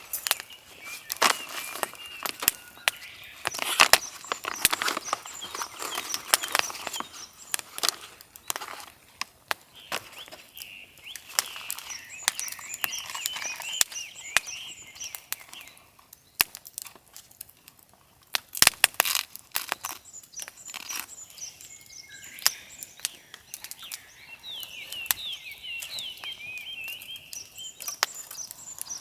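Songbirds singing in repeated chirping phrases in several spells, with many sharp close-by clicks and knocks throughout that are louder than the song.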